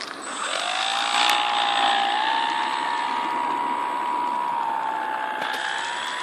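Motor of a radio-controlled Mustang model aeroplane spinning up about half a second in, its pitch rising, then running as a steady whine with small rises and dips in pitch.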